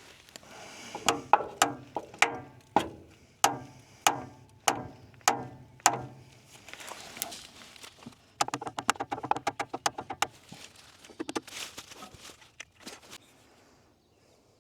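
A truck's starter motor being beaten on from underneath to free it, because the starter is stuck and only clicks: about ten sharp metallic knocks, roughly one every half second. Then comes a quick rattling run of faster taps from about eight to ten seconds in, followed by a few last knocks.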